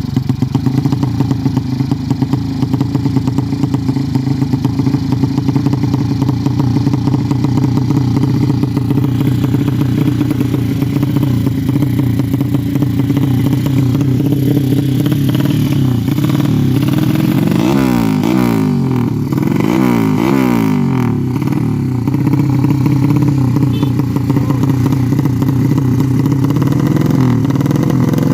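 Modified 200cc Yamaha Jupiter single-cylinder four-stroke engine on a PWK Sudco 33 carburettor running while being tuned. It idles steadily, then the throttle is blipped several times about two-thirds of the way through, the pitch rising and falling, before it settles back to idle.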